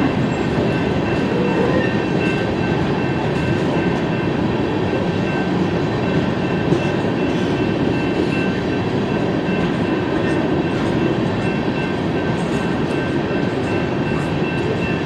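BNSF coal train rolling past, a steady rumble of hopper cars on the rails with faint thin high tones above it.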